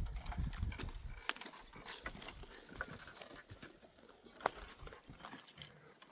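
Irregular steps and knocks on stony ground, with a low rumble through the first second or so.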